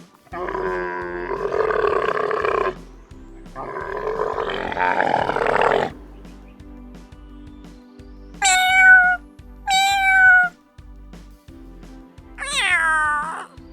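Two long, rough tiger roars, then three short meows of a domestic cat, each falling in pitch at its end, over soft background music.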